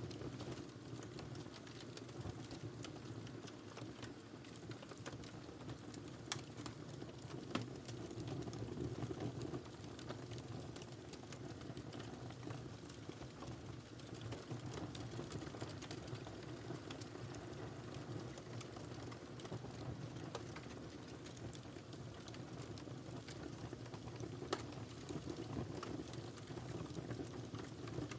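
Wood fire crackling in a fireplace: a steady low rumble of burning with frequent small snaps and pops. A few louder pops come about six and seven seconds in and again near the end.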